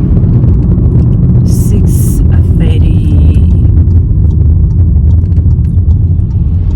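Steady, loud low rumble of a car's road and engine noise heard from inside the moving car, with a few brief hissing sounds about a second and a half in.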